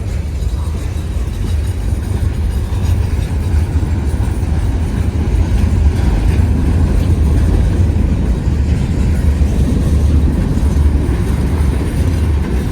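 Freight train cars rolling past a grade crossing: a steady, loud low rumble with no horn or bell.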